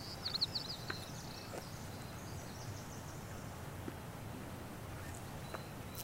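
Quiet outdoor mountain-forest ambience: a bird gives a quick run of high chirps right at the start, then fainter high calls, over a soft steady background hiss with a few faint ticks.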